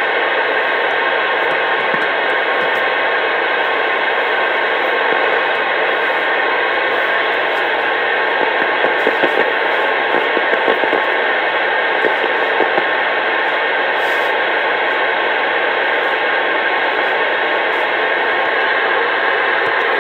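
CB radio receiver putting out loud, steady static hiss with faint steady tones in it, as from an open channel or a keyed carrier with no voice.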